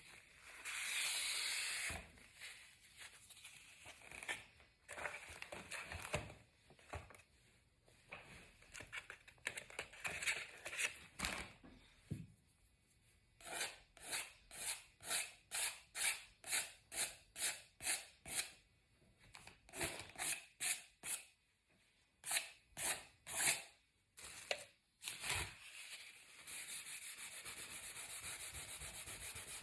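Colouring on paper: a colour stick is rubbed over the sheet in scratchy back-and-forth strokes, about two a second through the middle, with stretches of steady shading near the start and toward the end.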